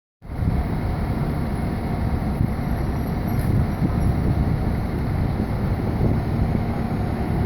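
Fire engine's diesel engine running with a steady low rumble, starting a moment in.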